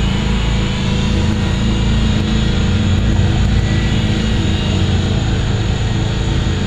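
WLtoys V911 micro RC helicopter's small electric motors and rotor blades running steadily in flight.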